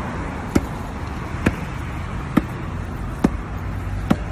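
A basketball being dribbled steadily, bouncing about once a second, five bounces in all, over a steady background hum.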